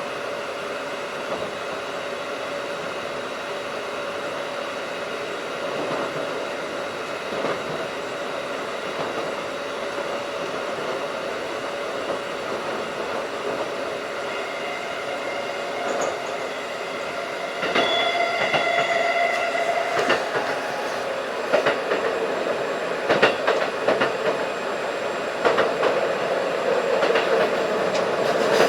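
Keikyu 1500 series field-chopper electric train running at speed, heard from inside the car: a steady running hum that grows louder about two-thirds of the way through, then wheels clattering over rail joints.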